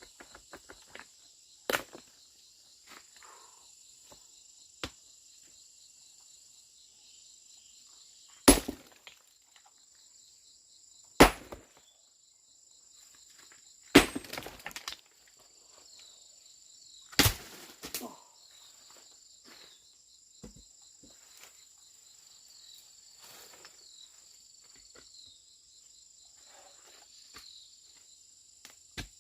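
Sharp, heavy blows struck a few seconds apart, about five in all, with smaller knocks between, over steady insect chirring.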